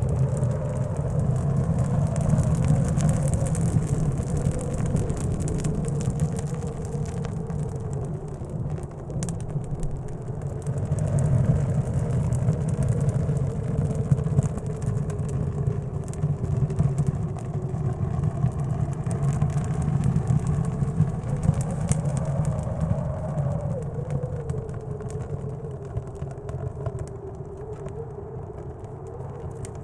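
Blizzard wind: a deep steady rumble with a whistling tone that slowly rises and falls, and light crackling from a wood stove fire.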